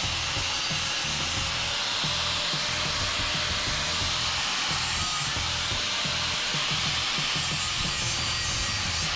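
Steady rubbing and scraping of a hand tool working the steel of a hoe, over background music.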